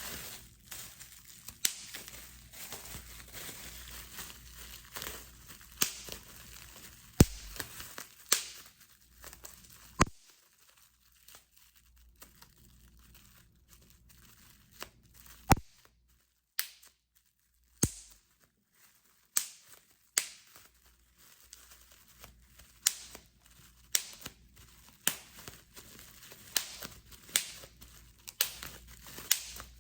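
Plastic bubble wrap being crinkled in the hands, with single bubbles popping one at a time in sharp pops about every second or two. There is a quieter spell about a third of the way in.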